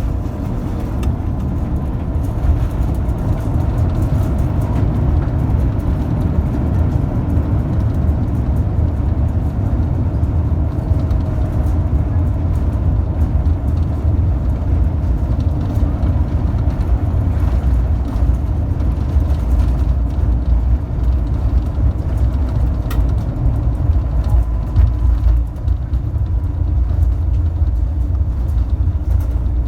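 Cabin noise of an Airbus A350 with Rolls-Royce Trent XWB engines, heard from inside the cabin: a loud, steady low rumble with a faint thin tone above it.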